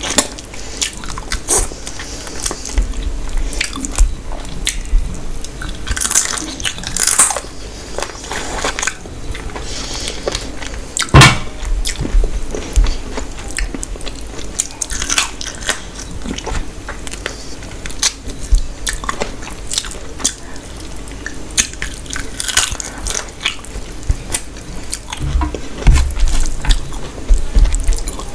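Close-miked eating: chewing and biting on duck masala and rice eaten by hand, with crunches and fingers mixing rice and gravy on a steel plate. Many short sharp clicks throughout, the loudest about eleven seconds in.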